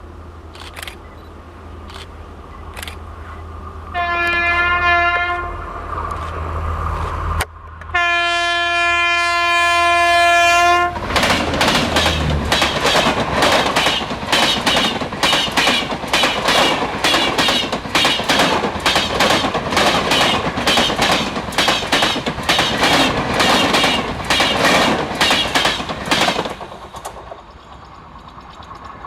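WAP-7 electric locomotive with a low hum sounds its horn twice, a short blast about four seconds in and a longer one about eight seconds in. The train then passes, its wheels clacking over rail joints at a fast, steady rhythm for about fifteen seconds before dying away.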